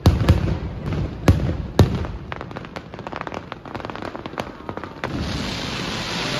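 Aerial fireworks display: four loud shell bursts in the first two seconds, then a rapid crackling of small reports. About five seconds in, a steady hiss takes over.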